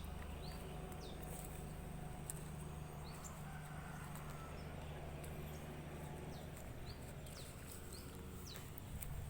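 Wild birds giving repeated short, high chirps that drop in pitch, at irregular intervals, over a steady low background hum.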